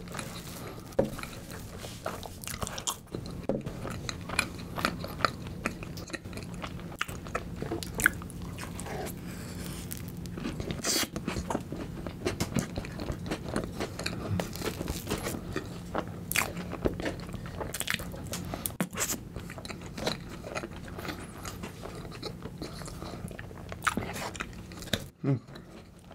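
Chewing and crunching of Oreo cookie-and-cream icebox cake, with many sharp, irregular crunches as the cookie pieces break between the teeth.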